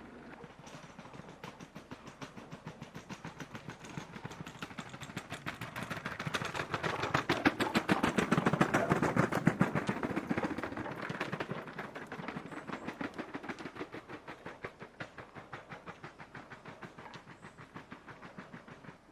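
A train passing, its wheels clicking rapidly and evenly over the rail joints, growing louder to a peak about halfway through and then fading away.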